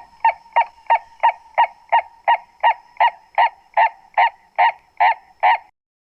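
Purple-crested turaco calling: a long run of evenly spaced croaking notes, about three a second, slowing slightly and rising a little in pitch, which stops about five and a half seconds in.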